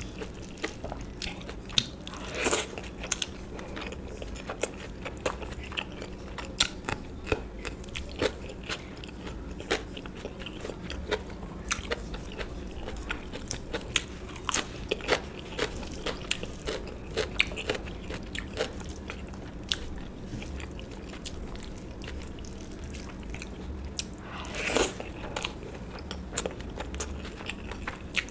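Close-miked eating sounds: a person chewing and crunching a meal of curry and rice with crisp sides, with frequent sharp clicks and a couple of louder crunches, one about two seconds in and one near the end.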